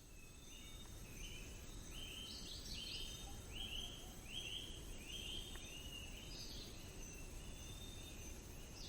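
Faint forest nature ambience with a steady low hiss, over which an animal gives a run of short chirping calls, a little under two a second, fading out after about six seconds.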